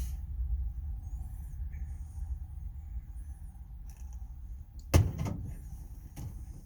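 Metal tool box drawer slide being worked by hand, with faint scraping and small clicks over a low background rumble. There is one sharp metal knock about five seconds in.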